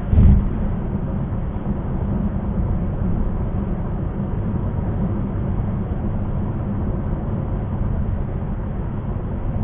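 Car driving at highway speed, heard from inside the cabin: a steady low road and tyre rumble, with one short low thump right at the start.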